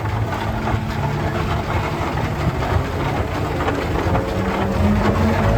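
Early-1900s steam traction engines running with a steady low rumble and hiss. About four seconds in, a low steam whistle begins to sound, rising in pitch as it comes on: the start of the noon whistle blow.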